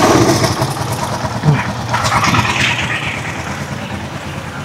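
Rusi Chariot 175 tricycle's engine running steadily, with no hiss left from the hose leak that caused the earlier noise.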